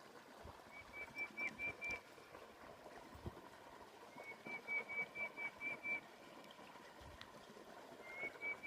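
Ducklings peeping: three runs of short, high, evenly spaced peeps, about five a second, each run lasting one to two seconds.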